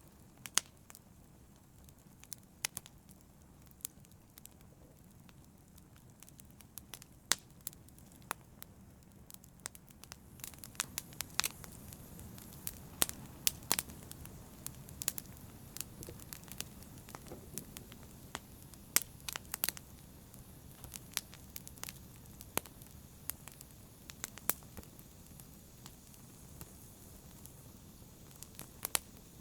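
Wood fire burning in a fireplace: frequent irregular sharp crackles and pops over a low soft rumble of the flames, growing busier about a third of the way in.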